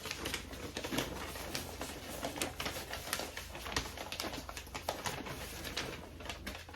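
Paper rustling and crinkling as a product information card or booklet is handled and leafed through, a quick run of small crackles over a low steady hum.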